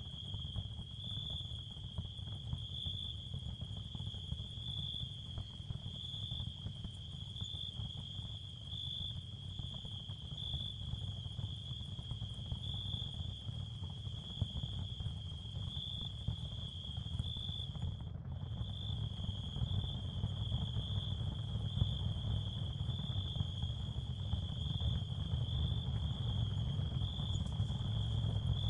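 Ambient therapy sound field: a steady, high insect-like chirring tone, pulsing slightly, over a low rumbling noise bed. The high tone drops out briefly about 18 seconds in.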